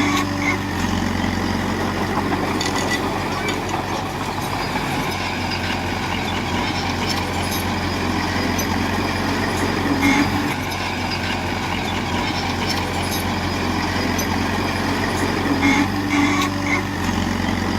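Heavy diesel earthmoving machinery running steadily under load, with a change in engine note about a second in and again near the end, and a few brief higher squeals here and there.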